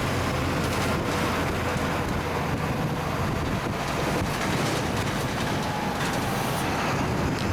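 Steady vehicle rumble with wind noise on the microphone.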